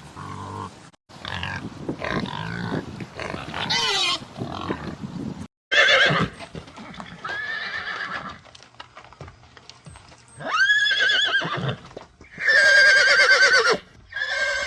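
A string of animal calls in short spliced clips. First come lower grunting and gliding sounds. From about the middle on come several loud, long calls whose pitch shakes and wavers.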